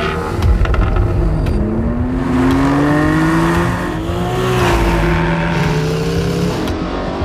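BMW M car engine accelerating hard, its pitch climbing steadily twice as it revs up through the gears.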